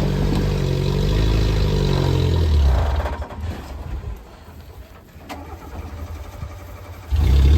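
Jeep JK engine running with a steady low drone. About three seconds in, the sound falls away to a much quieter rumble with a single click. Loud engine sound comes back abruptly near the end.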